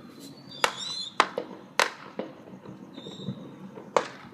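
Fireworks going off: five sharp bangs, the loudest about a second and a half in. A high warbling squeal sounds about half a second in and again near three seconds.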